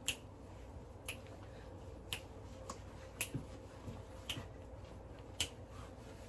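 Six sharp clicks at an even pace of about one a second over faint room noise, plausibly the plates of a hair flat iron clapping shut on section after section during a silk press.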